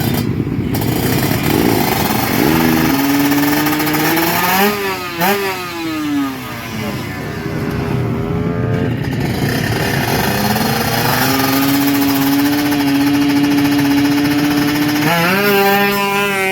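Honda Karisma motorcycle engine running and being revved. Its pitch climbs and falls a few seconds in, holds at a steady high pitch for several seconds, then drops and jumps back up near the end.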